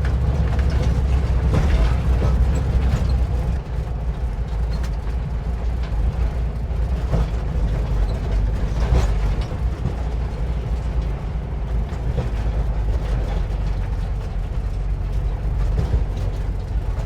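1950s VW split-window bus driving over a rough, rocky trail: a steady low drone from its air-cooled flat-four engine and the road, with irregular clicks and rattles from the body jolting over the rocks.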